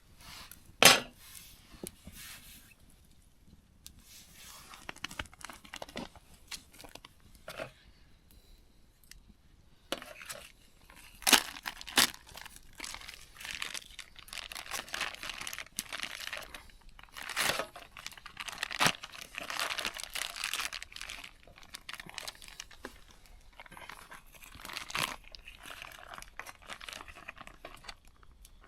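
Plastic food packaging rustling and crinkling as food is handled and served, with scattered sharp clicks and knocks of utensils and dishes, the loudest about a second in and around eleven seconds in.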